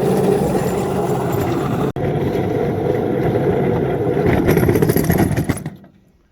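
Small railroad locomotive's engine running steadily while pushing a snowplow along the track. It is cut for an instant about two seconds in, swells briefly, then dies away just before the end.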